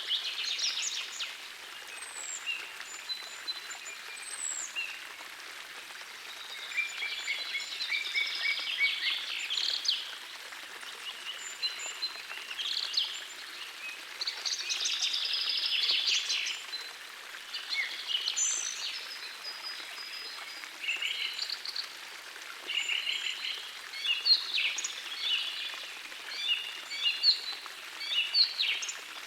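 Songbirds singing in short phrases, one after another, over the steady rush of a small forest stream.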